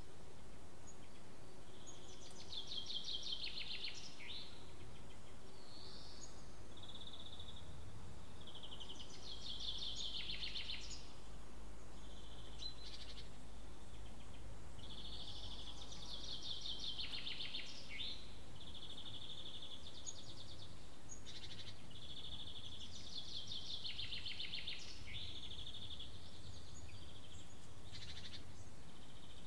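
A songbird repeating the same short trilled song phrase about every seven seconds, with shorter high calls in between. A steady low rumble of background noise runs underneath.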